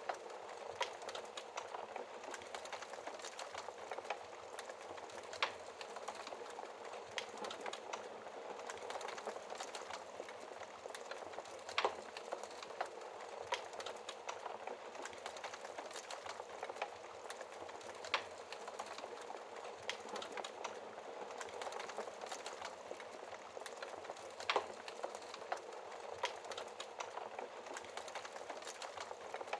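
Wood fire burning in a fireplace: a steady soft hiss with constant small crackles and a louder pop every few seconds.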